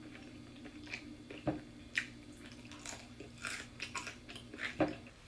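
Close-up chewing and biting sounds of someone eating Popeyes fried chicken: irregular wet clicks and short snaps of the mouth and food.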